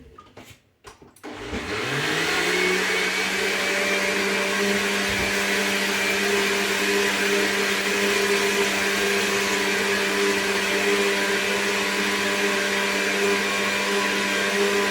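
Electric kitchen blender switched on about a second in, spinning up quickly and then running at a steady pitch while it blends coconut to draw out coconut milk.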